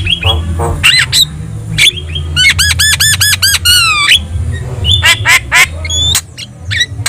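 Javan myna (jalak kebo) singing in full voice: sharp clicks, harsh squawks and whistles, with a fast run of about eight repeated ringing whistled notes in the middle.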